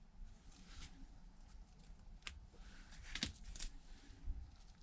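Faint handling of the iPad's screen flex cable: light rustling with a few sharp little clicks, the clearest a little after two seconds and around three seconds in.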